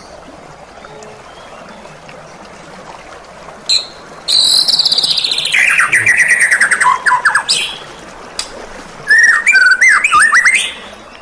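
White-rumped shama (murai batu, Thai type) singing. About four seconds in it gives a short note, then a long run of rapid notes sliding from high to low. After a pause comes a second phrase of quick whistled notes.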